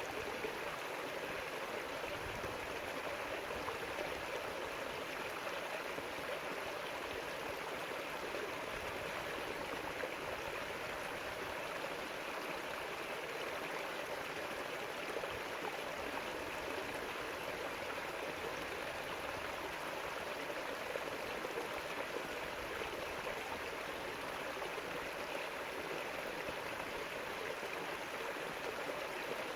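River water flowing over stones: a steady, even rushing and babbling.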